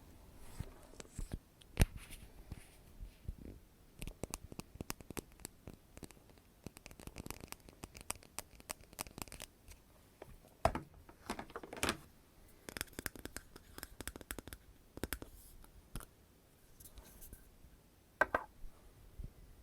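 Close-miked ASMR trigger sounds: an irregular run of small clicks, taps and crackles, with a sharp louder click about two seconds in and another cluster of louder ones near the end.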